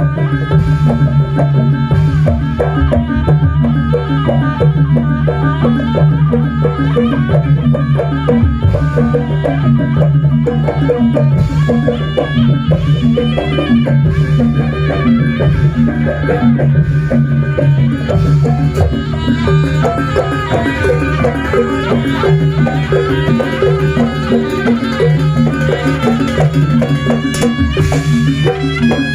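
Jaranan buto music played by a traditional ensemble: drums and gongs keep a fast, dense beat under a steady low drone, with a reedy wind-instrument melody on top.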